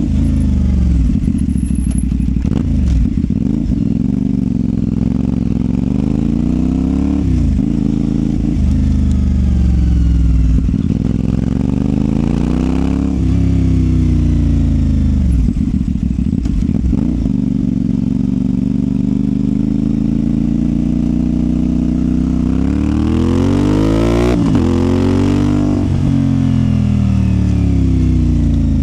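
CFMOTO 450SR's 450 cc parallel-twin engine through a Yoshimura exhaust, under way with the revs repeatedly rising and dropping back through gear changes and throttle openings. The longest, highest pull comes about two-thirds of the way through, then falls away.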